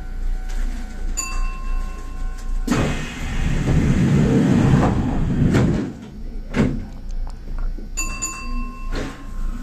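Train doors closing: a steady electronic door chime tone, then a loud rush with a rumble for about three seconds and two sharp knocks as the doors shut. The same tone sounds again near the end.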